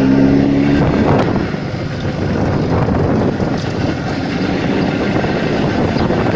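Jawa motorcycle running at speed with heavy wind buffeting the microphone; a steady engine tone fades into the wind rush about a second in.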